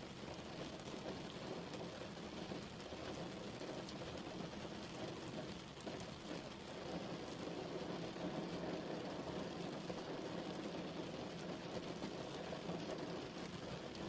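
Steady rain falling, an even rushing hiss with no distinct drops standing out.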